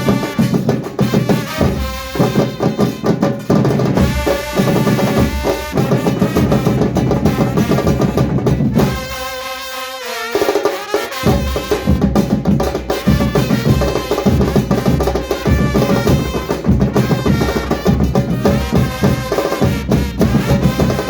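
Argentine murga percussion playing: bass drums and snare rolls driving a fast rhythm under a melody. The drums break off briefly about nine seconds in, then come back in.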